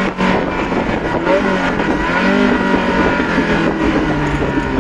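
Ferrari Mondial 3.2's V8 with a custom exhaust, heard from inside the cabin while driving. The engine note dips briefly at the start, then rises again as the car pulls.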